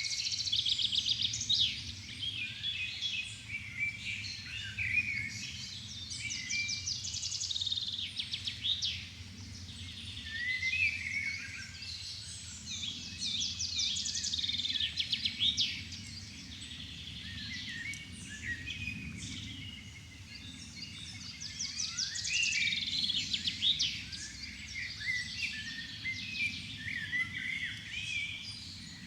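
Dusk chorus of many songbirds singing at once, with dense overlapping trills and chirps, over a low steady rumble.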